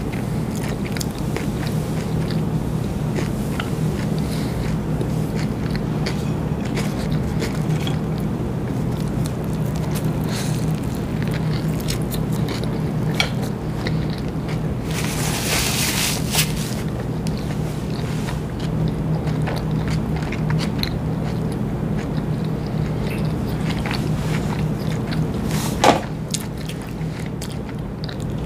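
A person chewing a mouthful of sub sandwich close to a lapel microphone, with small wet mouth clicks over a steady low hum. There is a brief rustling burst about halfway through and a sharp click near the end.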